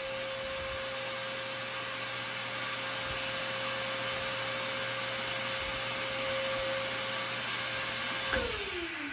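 Electric motor running steadily with a high whine over loud rushing air. It is switched off about eight seconds in and winds down, its pitch falling.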